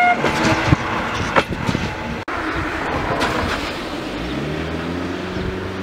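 Passenger coaches of a steam-hauled train rolling past, with a few sharp wheel clicks over the rails. After a cut there is a steady rumble, and a low hum rises in pitch over the last couple of seconds.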